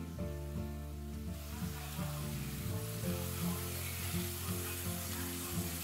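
Liver pieces frying in butter in a pan, a steady sizzle that grows stronger about a second and a half in. Background music with a steady beat plays underneath.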